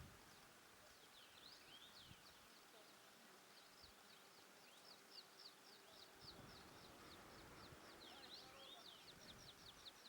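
Faint bird calls: a few short, falling high chirps, then a long series of quick, evenly spaced high notes that grows louder and faster near the end.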